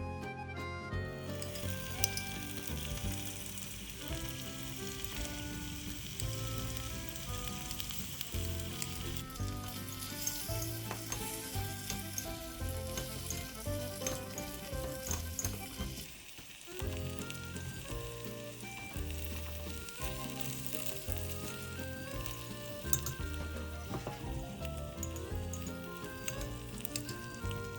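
Food sizzling and frying in a miniature pan, a steady hiss that starts about a second in, with background music playing over it.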